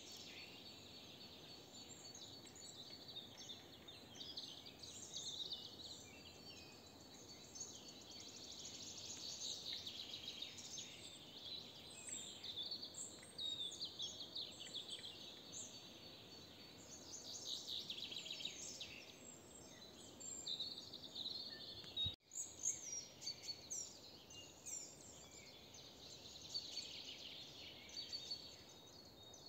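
A chorus of several songbirds, many short chirps and trills overlapping, faint over a quiet outdoor background. There is a brief dropout about three-quarters of the way through.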